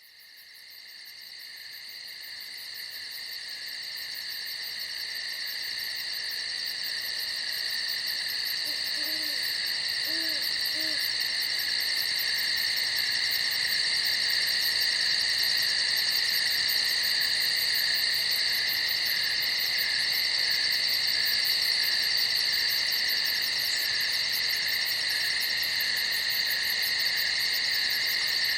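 Night chorus of crickets, a steady high shrill trill, fading in over the first ten seconds or so. Three faint short low hoots come around nine to eleven seconds in.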